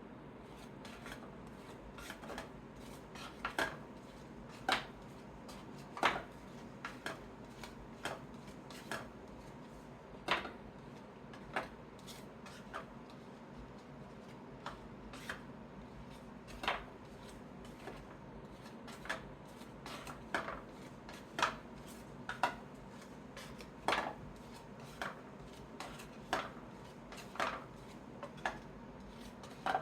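Trading cards being sorted by hand: irregular light taps and clicks as cards are handled and set down, about one or two a second, over a faint steady hiss.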